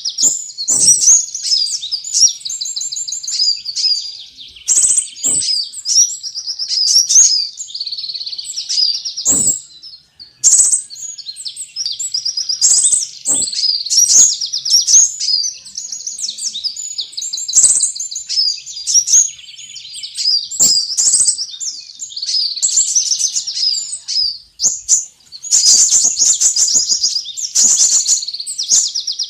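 Recorded lure call of sunbirds: a dense, continuous stream of high-pitched chirps and rapid trills, with short clicks scattered through it.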